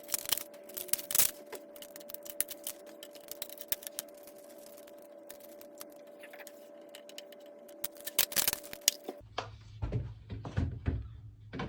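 Clicks, taps and rattles of a plastic fridge tray being handled and its lid folded, loudest near the start and again about eight seconds in, over a steady hum that cuts off near the end.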